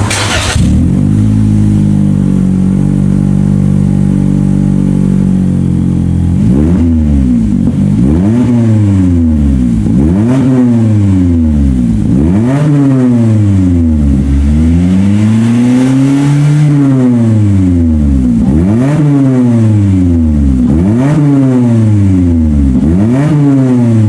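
Exhaust of a Toyota 90-series Voxy (MZRA90W) with a one-off four-tip muffler and straight mid-pipe: the engine idles steadily, then from about six seconds in is revved again and again, the pitch rising and falling each time, with one longer rev in the middle.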